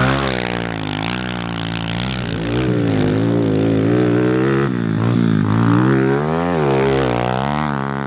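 Pit bike engine revving up and down over and over, its pitch climbing and falling every second or two.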